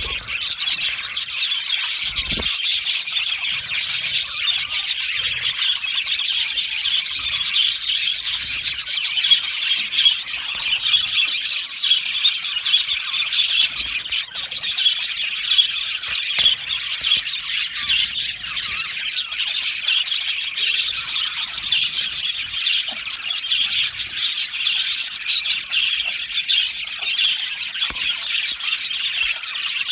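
A flock of budgerigars (budgies) chirping and chattering, many birds at once in a dense, unbroken chorus of short, high chirps.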